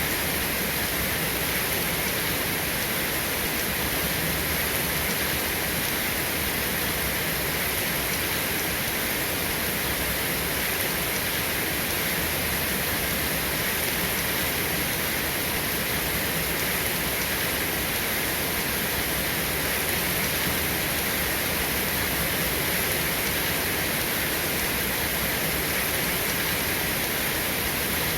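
Steady rain, an even, unbroken hiss with no individual drops or thunder standing out.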